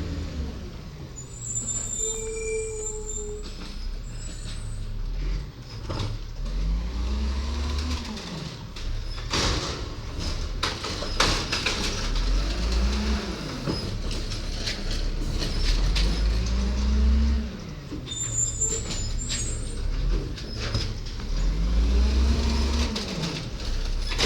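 Garbage truck engine revving up and falling back again and again, about every four to five seconds, with knocks and clatter in the middle of the stretch. There are brief high-pitched squeals twice.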